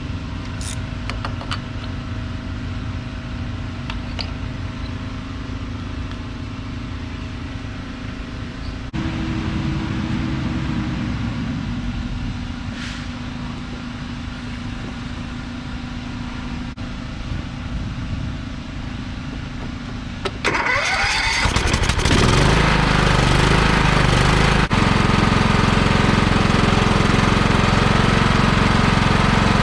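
Husqvarna riding mower's engine running steadily. About two-thirds of the way through it speeds up with a rising whine and becomes much louder and rougher, then holds there.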